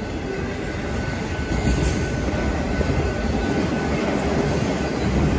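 A loaded freight train of multi-level autorack cars passing at speed close by: a steady rumble of steel wheels on the rails, growing a little louder partway through, with a faint thin whine over it at first.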